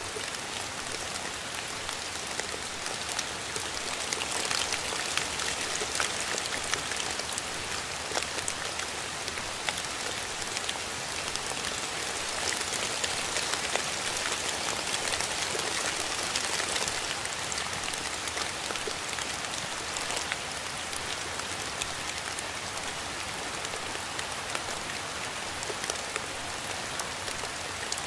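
Steady rain falling, a dense hiss with individual drops ticking through it. It comes down a little harder for a spell in the first half and eases slightly past the middle.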